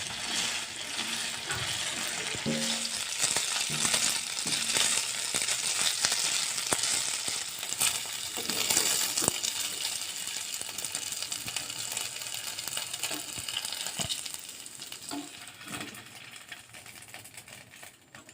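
Food frying in a pan, a steady sizzle with scattered clicks and scrapes of a spatula stirring. The sizzle fades over the last few seconds.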